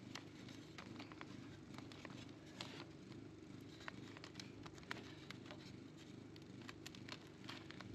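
Low steady hum of honeybees around the open comb, under many small scattered clicks and crackles from comb and frames being handled.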